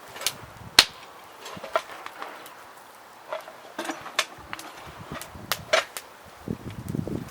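A series of sharp, irregular clicks and knocks, the loudest about a second in.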